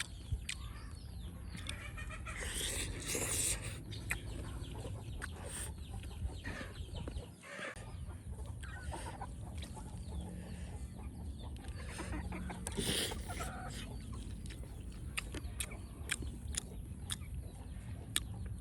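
Chickens clucking, with scattered clicks and knocks and two louder rustling bursts, about three and thirteen seconds in.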